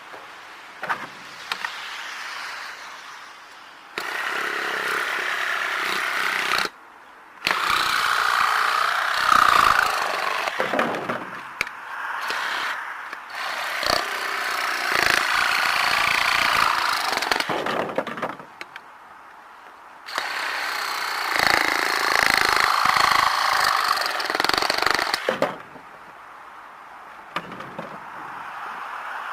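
Handheld power tool running in four long bursts of several seconds each, with short quieter pauses between them.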